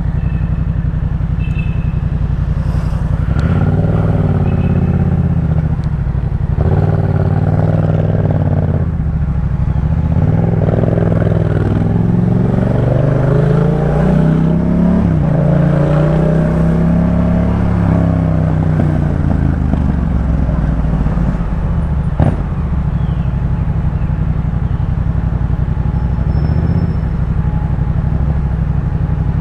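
Yamaha MT-07's 689 cc parallel-twin engine running through a Jeskap K4 full aftermarket exhaust while under way. Its pitch rises and falls several times as the bike accelerates and eases off. A single sharp click about 22 seconds in.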